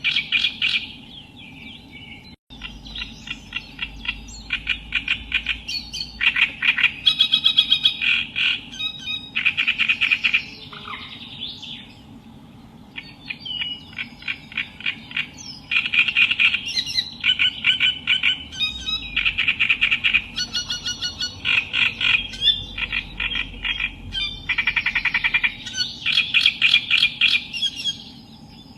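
Reed warbler singing: loud, harsh, chattering phrases of rapidly repeated notes, in bursts of a few seconds with short pauses between them.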